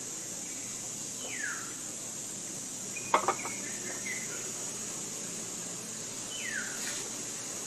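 Outdoor forest ambience: a steady high-pitched hiss or drone, and a bird giving a falling whistled call twice. About three seconds in, a brief loud cluster of sharp clucks or clicks stands out.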